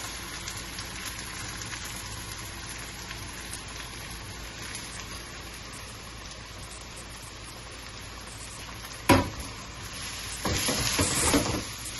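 Olive oil sizzling steadily in a hot pan with garlic, onions and sliced lemon frying in it. A sharp knock comes about nine seconds in, and near the end louder stirring starts as the ingredients are spread around the pan.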